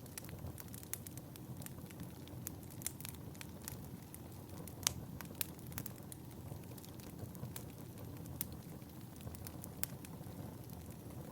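Fire in a fireplace crackling: a steady low rumble of flames with scattered sharp pops and snaps, the loudest about five seconds in.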